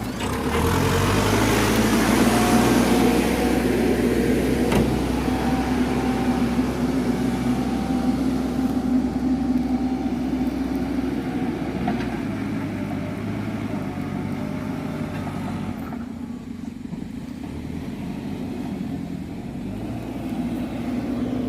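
Heavy diesel engine running, loudest in the first few seconds and then easing off, with the sound dropping lower about three-quarters of the way through.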